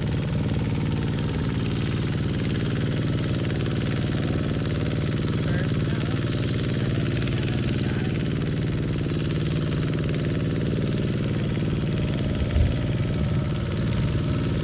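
Kubota NT131 hand tractor engine running steadily, with one short knock about twelve seconds in.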